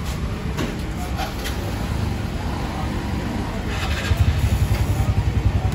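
Small two-wheeler engine idling close by over a steady low rumble. It grows louder and pulses evenly for the last couple of seconds.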